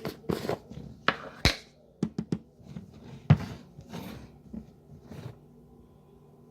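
Crunching and chewing of microwaved starch chunks: a string of irregular crunches and clicks for about five seconds.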